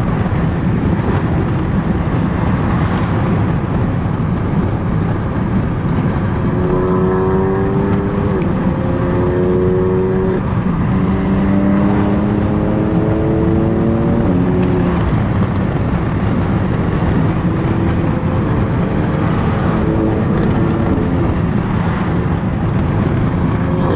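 Car engine accelerating hard through the gears: its pitch climbs, drops at each shift and climbs again, several times in the middle and once more near the end, over a heavy steady road roar.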